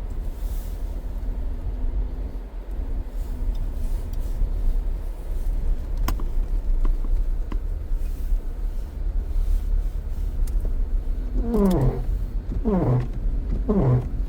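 Car driving, heard from inside the cabin as a steady low road rumble. Near the end a falling-pitched squeal repeats about once a second, four times.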